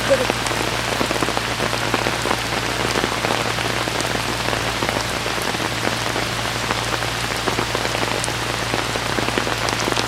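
Steady rain falling, with an electric generator's low hum running underneath.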